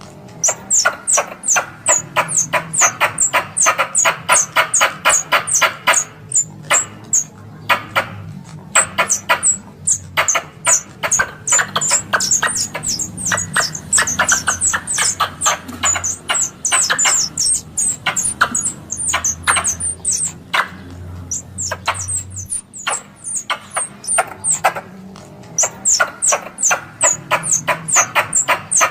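Squirrel chattering: a long run of sharp, high, quickly falling chirps, about four to five a second, broken by short pauses. This is a squirrel lure call for drawing squirrels in during hunting.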